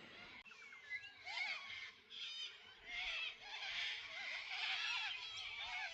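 Several birds calling and singing at once: overlapping chirps, quick trills and short rising-and-falling whistles that grow busier about halfway through.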